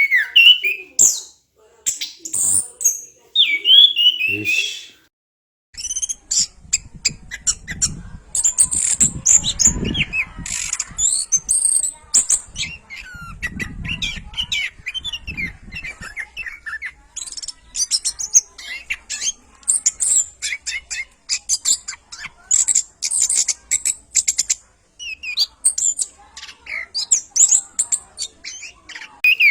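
Orange-headed thrush singing a fast, varied song of whistles and chirps, with a short break about five seconds in. A low rumble lies under the song for several seconds in the middle.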